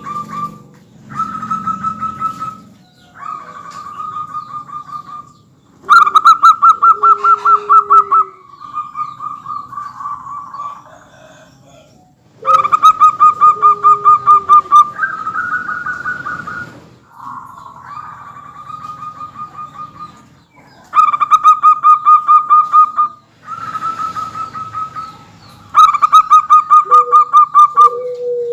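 Zebra doves (perkutut) singing: repeated bursts of rapid rolling, stuttering cooing trills, several birds calling one after another. The four loudest trill bursts come in about every five to seven seconds. A few lower, softer sliding coos lie beneath.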